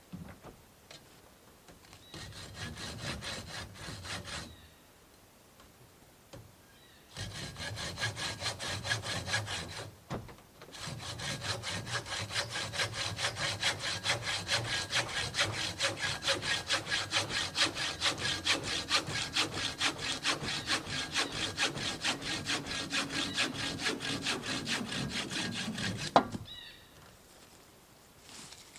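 Hand saw cutting through a piece of wood with fast, even back-and-forth strokes, in three bouts with short pauses between them, the longest running about fifteen seconds. It ends in a single sharp snap near the end.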